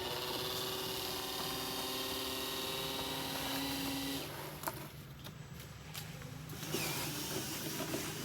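Small electric motor and gearing of a radio-controlled construction model whining steadily, cutting off about four seconds in, followed by a single click. A rougher motor sound starts near the end.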